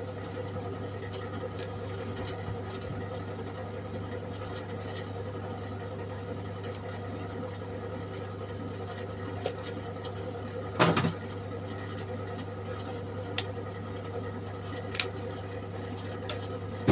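SIP Supermig 130 MIG welder arcing on its low setting: a steady buzzing crackle with a hum underneath, and one louder pop about eleven seconds in. The low setting gives too little power for a proper weld.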